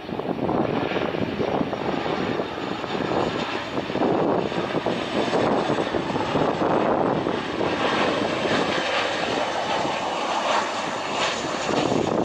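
Passenger airliner's engines, a loud, steady rushing roar that grows a little louder about four seconds in.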